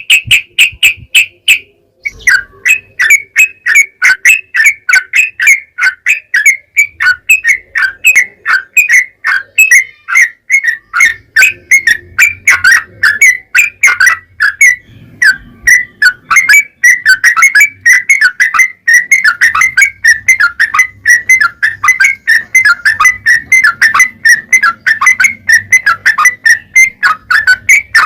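Yellow-vented bulbul (trucukan) singing a long, fast run of short whistled notes with barely a pause, breaking off briefly about two seconds in before carrying on.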